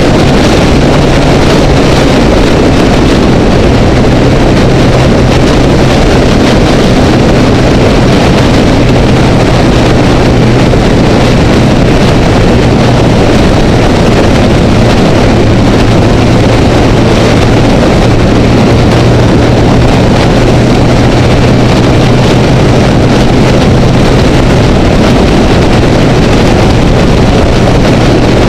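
Honda Rebel motorcycle engine running steadily at freeway cruising speed, under heavy wind noise on the microphone. The engine's tone drops slightly about two seconds in.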